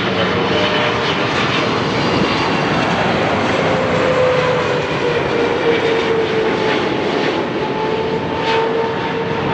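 Jet airliner's engines passing close by: a loud, steady rush with a thin whine that slowly drops in pitch.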